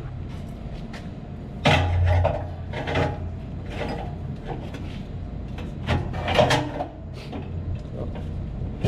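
Knocks and scraping of a 7.5 kW electric motor and tools being shifted on the motor's base during alignment, a few sharp bumps with the loudest about two seconds in and again around six seconds in, over a steady low hum.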